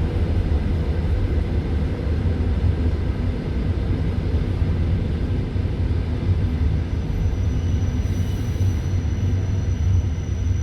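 Steady low rumble of a passenger train coach, heard from inside the carriage, with no distinct rhythm of wheel knocks. A faint thin high whine starts about seven seconds in.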